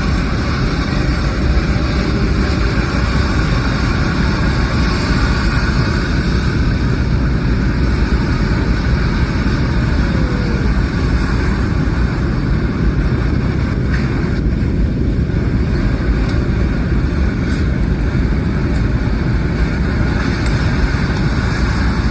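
Airliner cabin noise: a steady, loud rumble and rush of the jet engines and airflow, heard from inside the cabin.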